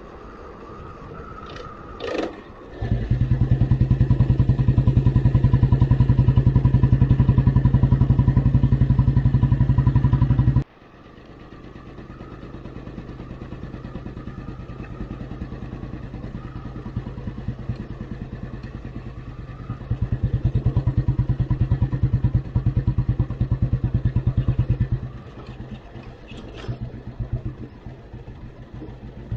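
Old Royal Enfield Bullet Standard 350's single-cylinder engine running under way with its even, rapid beat. It is loud for several seconds, drops off suddenly about ten seconds in, then builds back and is loud again from about twenty to twenty-five seconds before easing. A short clatter comes just before the engine note rises at the start.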